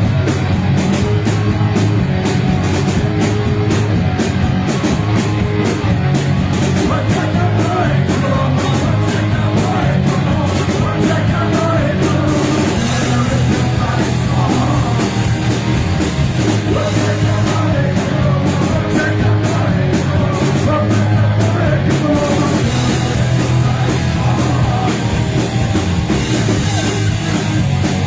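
Live punk/thrash band playing loudly: distorted guitars, bass and fast drumming, with a sung voice in the mix.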